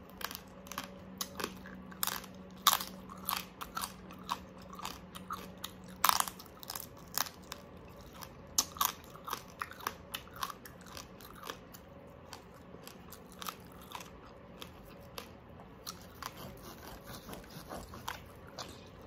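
Close-up chewing and crunching of crispy oven-baked pork crackling, many irregular sharp crunches that grow softer and sparser after the first several seconds.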